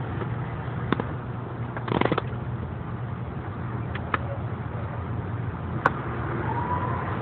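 A car engine hums steadily at a low pitch. A few sharp clicks or knocks stand out over it, about a second in, around four seconds in and near six seconds, with a short rattling burst at about two seconds.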